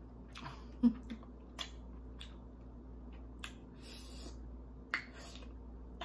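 Close-miked chewing of crispy deep-fried, battered lobster tail: irregular sharp wet clicks and crunches from the mouth, loudest about a second in and again near five seconds.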